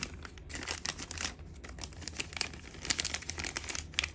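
Rapid, irregular crinkling and light clicking of something being handled, like a plastic wrapper being crumpled.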